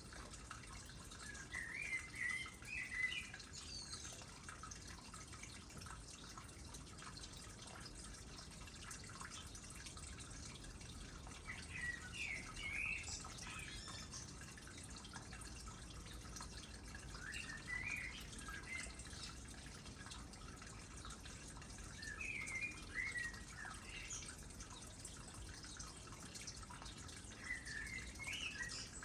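Water trickling steadily into a small pond, with a songbird singing short, chirpy phrases about every five seconds over it.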